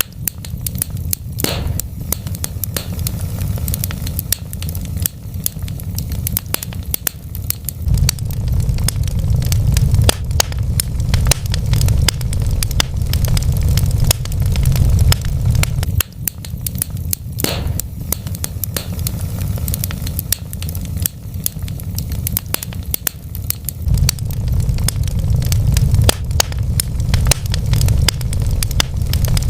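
Wood fire in a fireplace crackling and popping: many small snaps over a steady low rumble from the burning logs, with two louder pops, one about a second and a half in and one near the middle.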